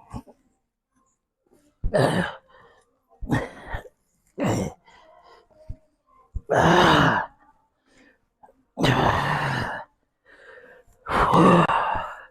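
A weightlifter's heavy, forced breathing through a set: six loud exhalations every second or two, some voiced like groans from the strain of the reps.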